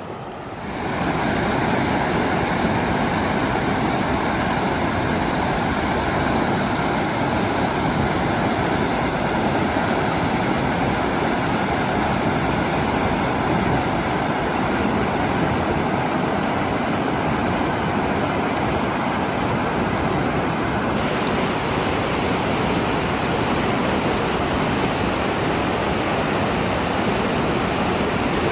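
Rushing water, a steady full roar running high after heavy rains, swelling up about a second in and then holding even.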